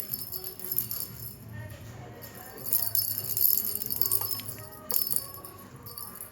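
Jingling of a cat's toy on a scratcher as it is batted, coming in bursts (at the start, for about two seconds from near the middle, and again near the end), over background music.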